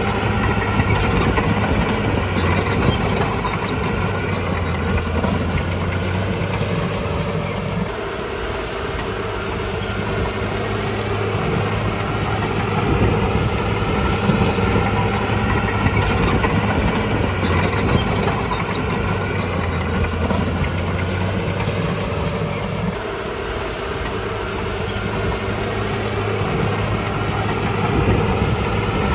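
Bulldozer diesel engine running continuously, its note dropping and rising again twice as the load changes, with clusters of sharp knocks about three seconds in and again about eighteen seconds in.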